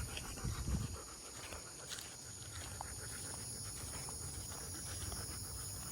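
Faint footsteps and a dog panting on a walk, over a steady high hum.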